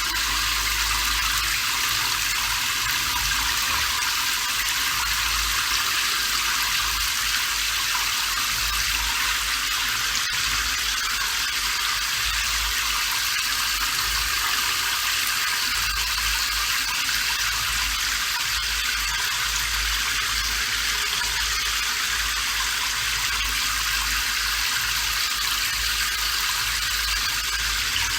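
Steady rain falling, an even hiss with most of its weight in the upper range, and a faint low rumble that comes and goes underneath.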